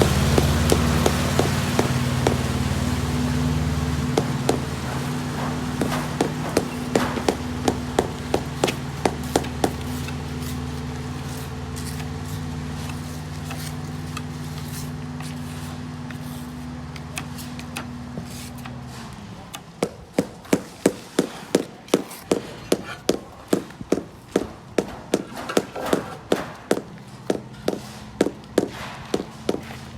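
Hammer blows in a steady rhythm, about two a second, from roof-tiling work. An engine runs alongside until about two-thirds of the way through, then stops, leaving the knocks clear.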